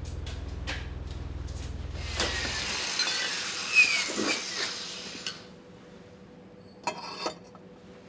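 Metal parts clinking and clattering against each other over a low steady mechanical hum that cuts off about three seconds in, followed by two sharp metallic knocks near the end.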